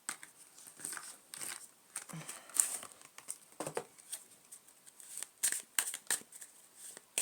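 A deck of tarot cards being gathered and shuffled by hand: a string of short, irregular rustles and flicks of card on card.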